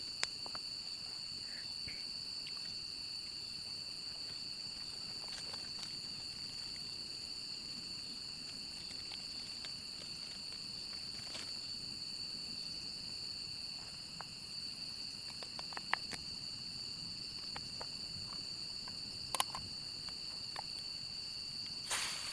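Steady chorus of insects ringing on a few high, unchanging tones, with a handful of sharp clicks and knocks near the end.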